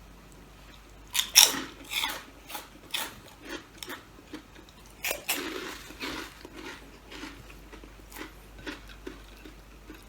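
Close-up crunching and chewing of crisp food: a loud crunchy bite about a second in, another burst around five seconds, then smaller crunches that thin out.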